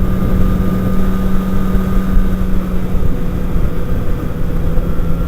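Motorcycle engine running at a steady speed on the move, a steady drone under heavy wind rumble on the microphone.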